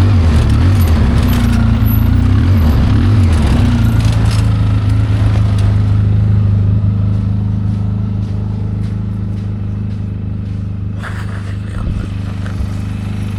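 ATV engine running while riding, its pitch shifting for the first few seconds and then holding steady, with a few short knocks or rattles near the end.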